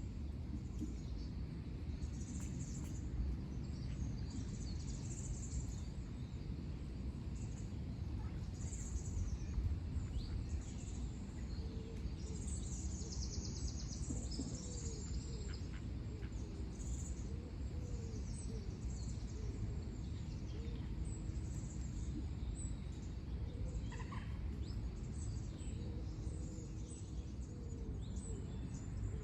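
Small birds chirping and calling here and there over a steady low background rumble.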